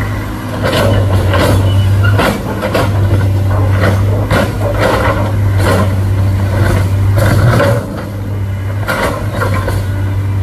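Heavy vehicle's diesel engine running steadily with a deep hum, under a run of sharp knocks and clanks about every second.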